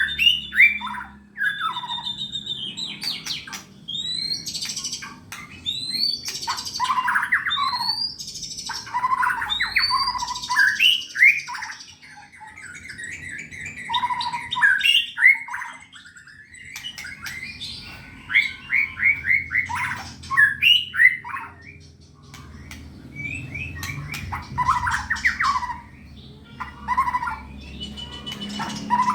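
White-rumped shama (murai batu) in full song, a bird in contest form: phrase after phrase of loud whistles, quick rising and falling notes, rapid chattering trills and harsh squawks, with short pauses between bursts.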